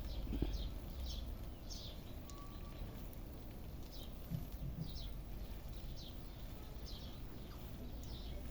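A bird calling with short, high chirps, each falling in pitch, repeated irregularly about once a second, over a low steady rumble.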